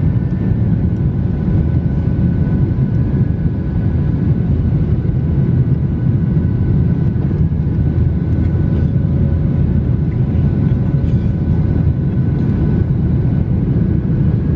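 Steady low drone of an airliner's cabin in flight: engine and airflow noise with a few faint steady tones above it.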